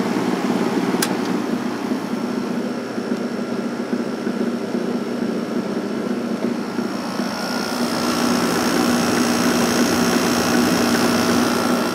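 Vintage Emerson Quiet Kool 6,300 BTU window air conditioner running on high fan: a steady hum with air rushing from the vent. There is a single click about a second in, and about eight seconds in it grows louder with a higher whine over the hum.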